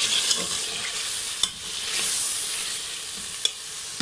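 Pieces of goat tripe (ojri) frying in oil and masala in a metal pressure-cooker pot, sizzling steadily while a metal spoon stirs and scrapes through them. A few sharp clicks of the spoon against the pot.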